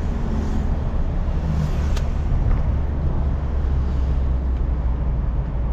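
Steady engine hum and road noise heard from inside a moving car's cabin, with a single sharp click about two seconds in.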